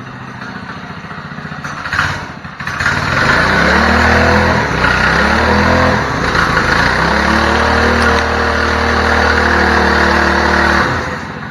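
Small motorcycle engine idling, then revving up about three seconds in and pulling away, its pitch rising and falling through the gear changes. It then runs steadily and drops off just before the end.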